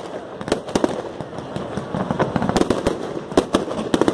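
Aerial fireworks going off: a rapid, irregular string of sharp bangs and crackles.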